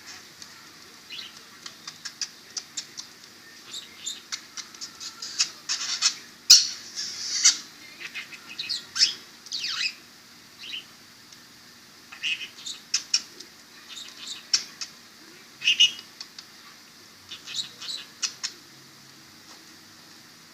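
Pet budgie chirping and chattering in short, scattered bursts with brief pauses, loudest around six to seven seconds in.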